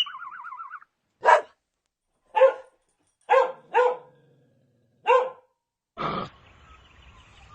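A dog barking five times: single short barks about a second apart, with two in quick succession near the middle.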